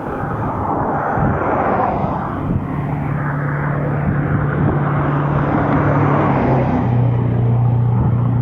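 Highway traffic and wind rushing past while riding an e-bike on a bridge shoulder. A steady low hum starts about three seconds in and drops to a lower pitch near seven seconds, like a vehicle going by.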